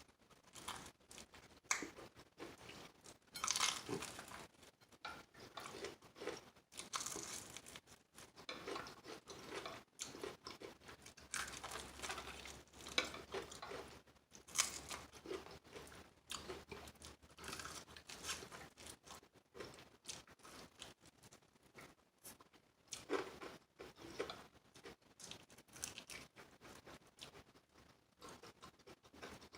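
Crunching bites and chewing of crispy fried chicken wings, in irregular crackly bursts.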